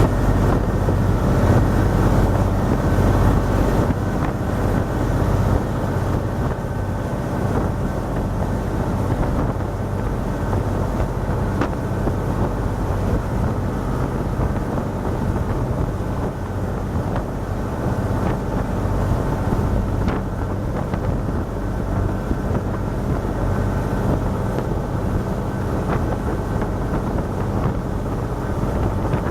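Motorboat engine running steadily under way, with wind buffeting the microphone. It is a little louder in the first few seconds.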